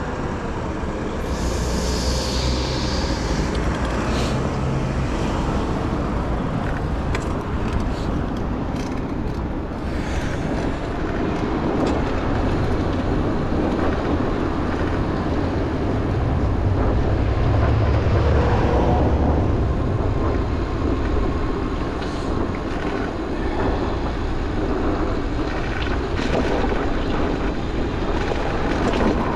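City street traffic heard from a moving bicycle: a steady rumble of passing vehicles and road noise, with a brief high squeal about two seconds in and a louder low rumble of a passing vehicle about two-thirds of the way through.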